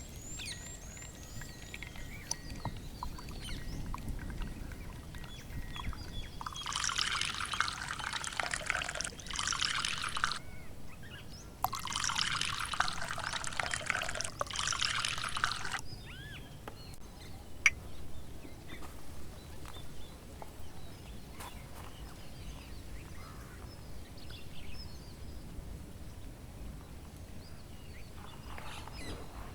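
Liquid being poured, twice, each pour lasting about three to four seconds with a brief break partway through. Faint bird chirps can be heard in the background.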